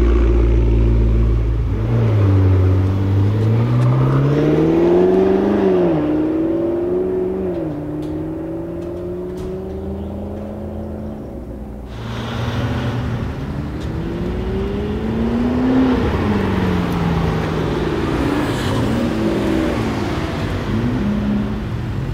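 McLaren MP4-12C Spider's twin-turbo V8 idling, then pulling away, the revs climbing and dropping back twice through upshifts before a long slow climb. After an abrupt cut, it accelerates along a road, its revs rising and then falling as it passes, followed by more rising and falling engine notes.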